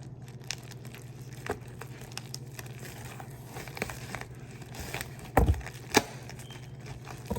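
Frozen pizza packaging being opened by hand: cardboard and plastic wrap crinkling and tearing in scattered small crackles, with two louder knocks about five and six seconds in, over a steady low hum.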